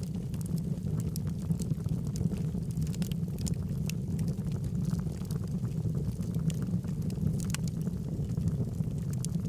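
Wood logs burning in a fireplace: a steady low rumble of the fire with frequent sharp crackles and pops scattered throughout.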